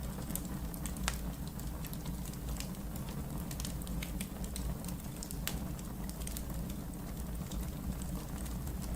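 Wood fire crackling in a fireplace: scattered sharp pops and crackles over a steady low rumble of the flames.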